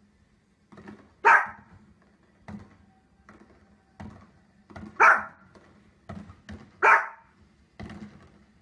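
A small dog barking: three sharp, loud barks, about a second in, about five seconds in and just before seven seconds in, with fainter short sounds between them.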